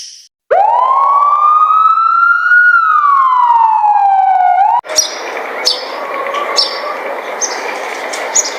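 A single siren wail: one tone that rises slowly, then falls and cuts off abruptly. It is followed by a steady rushing noise with scattered clicks.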